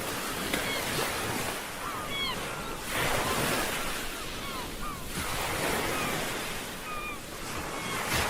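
Ocean surf washing onto a shore in surges, louder about three seconds in and again near the end. Many short, high calls from birds sliding down in pitch sound over the surf.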